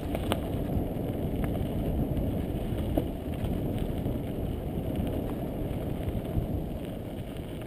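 Mountain bike rolling along a dirt single-track trail: wind rumbling on the camera microphone and tyre noise, with a few sharp clicks and rattles from the bike. It builds in the first second and fades near the end.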